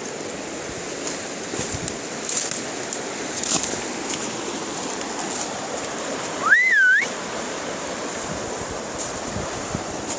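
Steady rush of river water, with one short whistle-like call about two-thirds of the way in that rises, dips and rises again.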